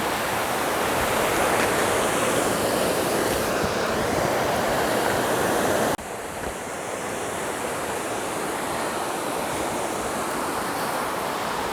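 Rushing water of a small river and waterfall, a steady loud rush that drops suddenly to a quieter rush about six seconds in.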